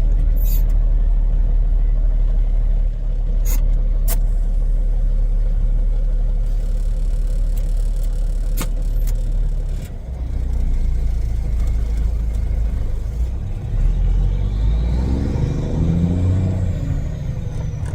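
Semi-truck diesel engine running as the truck drives, heard from inside the cab: a steady low rumble, with a few sharp clicks in the first nine seconds and a brief drop in level about ten seconds in.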